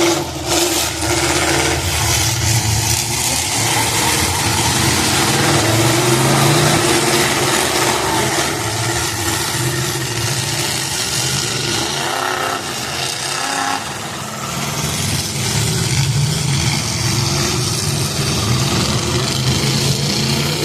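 Demolition derby cars' engines running hard and revving, rising and falling in pitch, as one continuous loud din.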